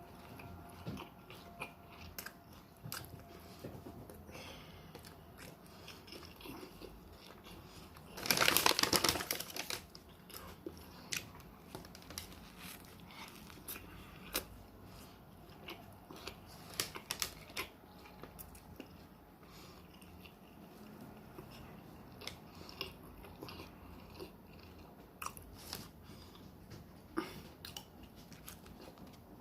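Close-up chewing and biting of a turkey and cheese sandwich, with many small mouth clicks and smacks. About eight seconds in, a louder rushing noise lasts about a second and a half.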